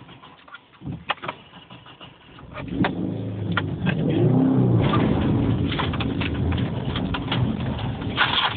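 Subaru Forester's boxer engine revving up under load about two and a half seconds in, its pitch rising and falling, then pulling steadily, with scattered sharp knocks and clicks.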